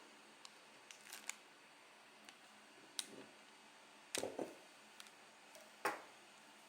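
A few scattered light clicks and knocks over faint room tone, the loudest two about four and six seconds in.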